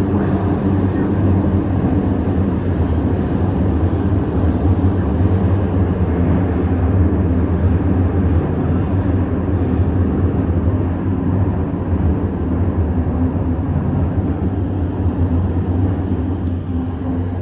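Chengdu Metro Line 7 Type A train running, heard from inside the car: a steady low rumble of the moving train that eases off slightly near the end as it slows for the station.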